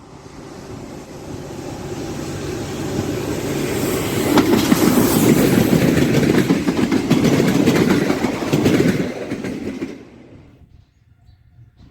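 Freight train passing at speed, its wagons' wheels clattering over the rail joints, growing louder to a peak and then dropping away abruptly about ten seconds in.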